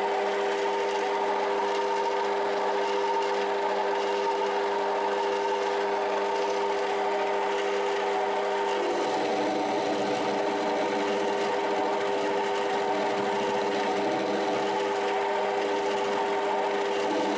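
Small 7x14 benchtop metal lathe running steadily with a motor and gear whine, likely during a cut. The tone shifts slightly about nine seconds in, when a lower hum drops away.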